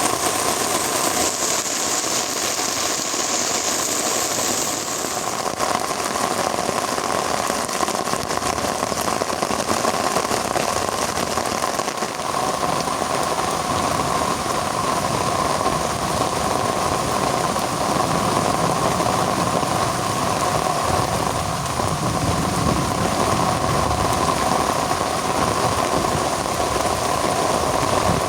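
Heavy rain pouring steadily, a dense, even hiss. An extra high hiss fades out about five seconds in.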